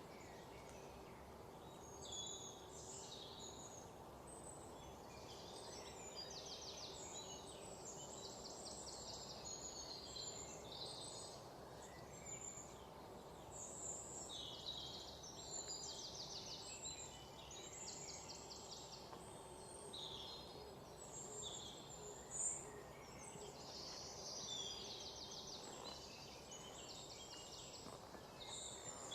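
Several birds singing and calling, with quick trills and chirps repeating throughout, over a faint steady background rumble.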